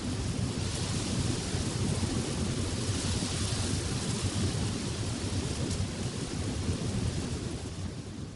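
Downburst storm: torrential rain and wind making a dense, steady rush with a heavy low rumble. It starts to ease near the end.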